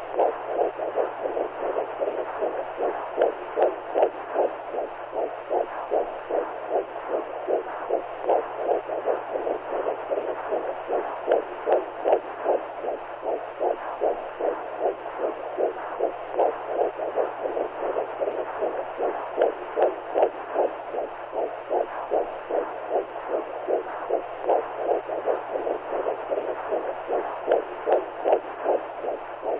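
Womb sound for soothing newborns: a steady whooshing noise that pulses in an even rhythm like a heartbeat, with a faint low hum beneath.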